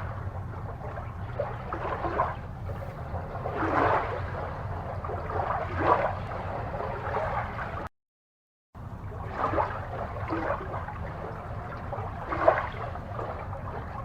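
Water gurgling and bubbling in irregular swells over a steady low hum, with the sound cutting out completely for under a second a little past the middle.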